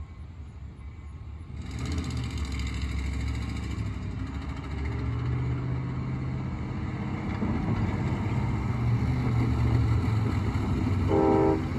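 Low, steady engine rumble that comes in about two seconds in and slowly grows louder, with a brief horn toot near the end.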